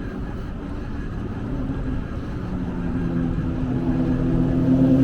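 A motor running with a steady low rumble; in the second half a droning hum with a few steady pitches builds up and grows louder.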